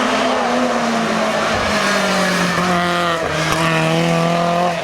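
Lancia 037 Group B rally car's supercharged four-cylinder engine running hard and loud, its pitch sliding gradually lower, with a sudden drop about three seconds in.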